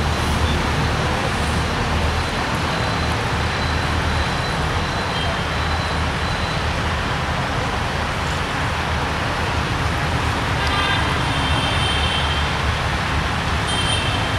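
Metre-gauge passenger train running on the track: a steady rumble of wheels on rail with a low drone underneath. Brief faint high tones come in about eleven seconds in and again near the end.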